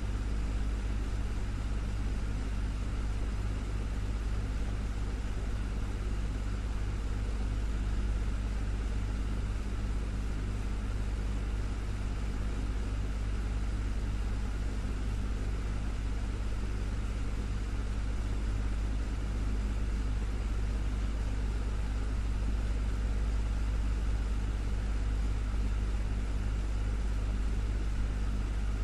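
Desktop electric fan running steadily: a constant low hum with an even airy rush of moving air, unchanging throughout.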